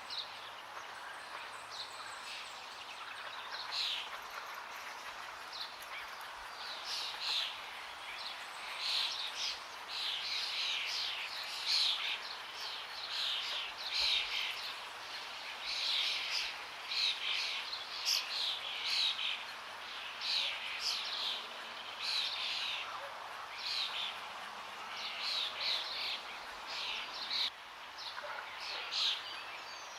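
Forest birds chirping over a steady rush of flowing water, the birds' calls coming in quick runs of short, sharp, falling notes, most thickly through the middle and latter part.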